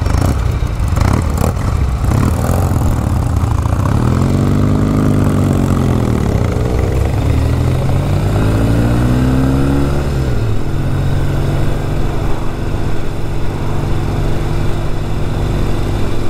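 Motorcycle engine revved twice, its pitch rising and falling each time, then settling into a steady idle about ten seconds in.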